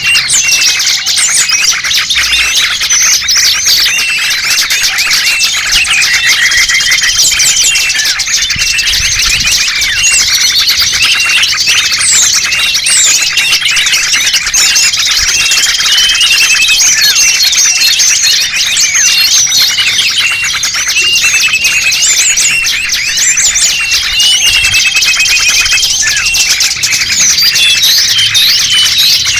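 Dense chorus of many small birds calling at once: overlapping rapid chirps, short trills and thin whistles, continuous and unbroken. It is a bird-lure (pikat) recording, played to draw small wild birds in for trapping.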